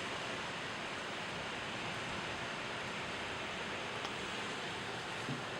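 Storm wind with rain, a steady and even rushing noise.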